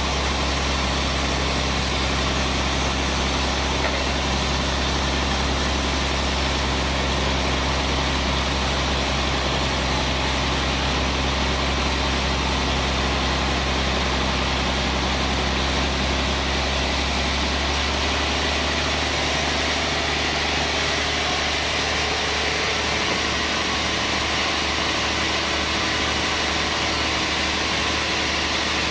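Band sawmill running steadily, with a deep hum under a wide hiss. About two-thirds of the way in, the deep hum drops away and the hiss softens, while the machine keeps running.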